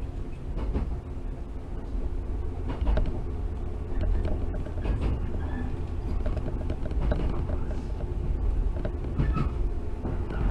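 Cabin sound of a JR 115-series electric multiple unit running along the line: a steady low rumble of wheels and running gear with a faint hum, broken by occasional knocks over rail joints.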